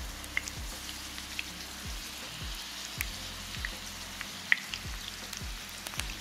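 Chicken-filled corn tortilla tacos shallow-frying in hot oil: a steady sizzle with scattered sharp pops and crackles.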